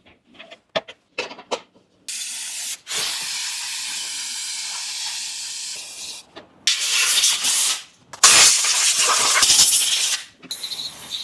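A few light clicks, then three long bursts of loud hissing spray from pressurised air or liquid, each cutting off suddenly.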